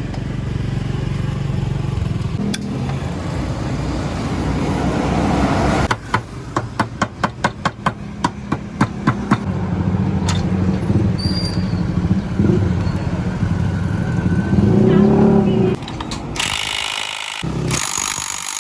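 A motor scooter's single-cylinder engine runs steadily under way, with a run of about a dozen sharp clicks in the middle. The sound changes abruptly near the end.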